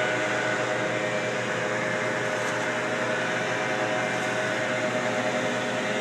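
A steady machine drone with several held tones, running unchanged.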